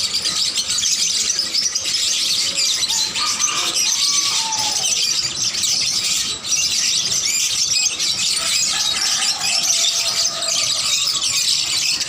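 Dense, continuous high-pitched chatter of many caged small birds calling at once.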